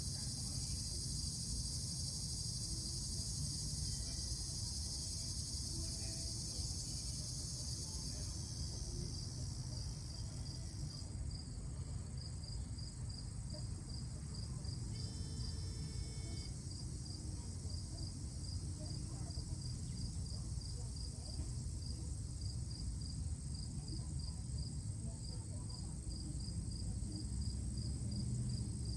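Insects chirping: a dense high-pitched insect drone fades out about ten seconds in, leaving one insect's short chirps repeating evenly about twice a second, over a low rumble.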